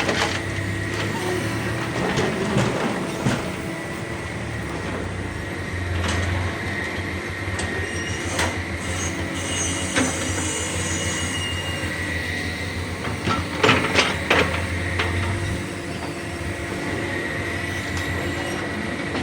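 Diesel hydraulic crawler excavators (a Hitachi Zaxis 210F and a Doosan DX225) running while digging, with a steady high whine over the engine rumble. Scattered metallic clanks of bucket and rock come throughout, with a close cluster of them about two-thirds of the way through.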